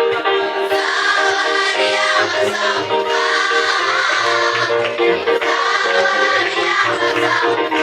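Children's school choir singing a worship song.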